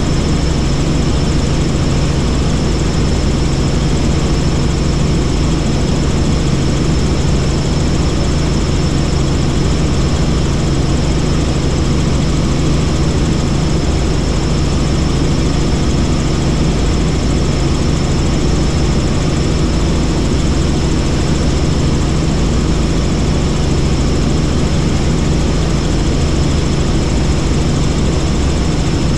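Helicopter in flight: the steady drone of its engine and rotor, unchanging, with a thin steady whine on top.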